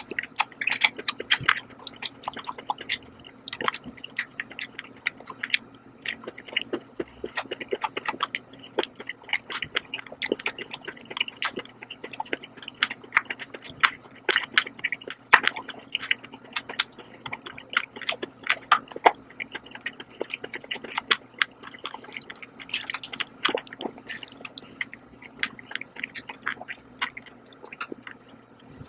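Close-miked chewing of a piece of abalone: many sharp, wet mouth clicks and squishes throughout, over a faint steady hum.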